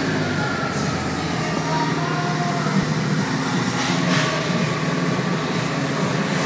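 Audi A6 C5's 2.4-litre V6 (ARJ) engine running steadily at idle, heard from inside the cabin, with a couple of faint knocks about four seconds in.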